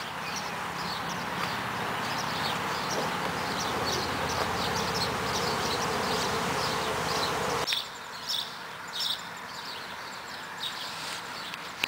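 A swarm of honey bees in the air, making a steady, dense buzzing drone that stops abruptly about eight seconds in. Birds chirp in the background throughout.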